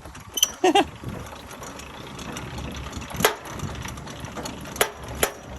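A truck's engine running low and steady, with a few sharp clicks about three seconds in and near the end.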